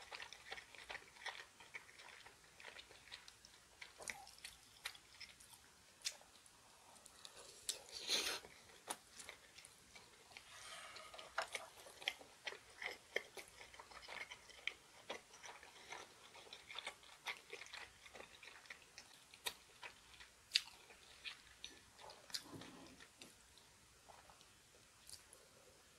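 A person chewing a mouthful of food close to the microphone: many small, irregular mouth clicks, with one louder sound about eight seconds in.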